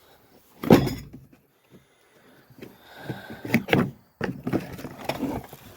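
A loud knock about a second in, then several sharper clanks and a stretch of rattling: metal driveshaft parts being handled and knocked into place.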